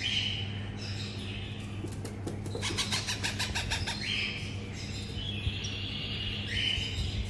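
Baby parrots' begging calls: repeated short, noisy calls, with a fast run of clicking sounds about three seconds in.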